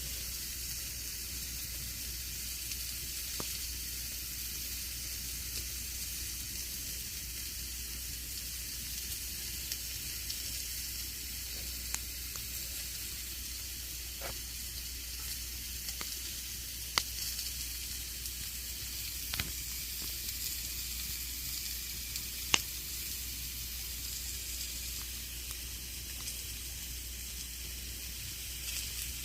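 Campfire burning: a steady hiss with scattered sharp crackles and pops, the two loudest pops a little past halfway and about three-quarters through.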